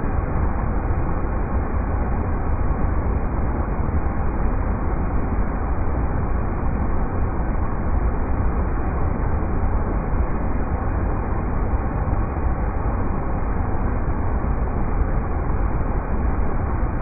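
River rapids: water rushing in a steady, unbroken roar with most of its weight low down.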